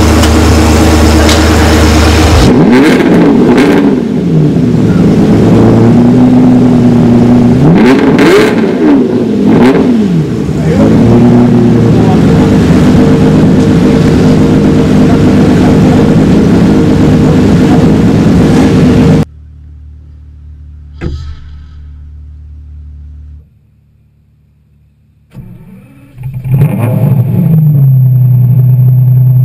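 Lamborghini Murciélago V12 idling and being revved several times, the pitch rising and falling with each blip. After a sudden drop to a quiet stretch with a single click, the engine runs up again and settles to a steady idle near the end.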